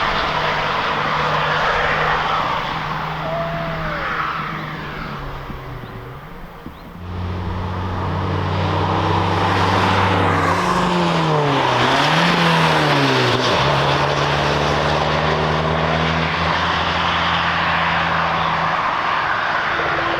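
Cars driving at speed on a racetrack, their engines running steadily. The sound fades about six seconds in, then a car's engine note rises and falls as it passes close.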